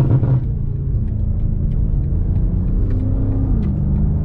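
BMW M5 Competition's twin-turbo 4.4-litre V8 running steadily at a cruise, a low rumble. About three seconds in the engine note rises slightly, then drops back.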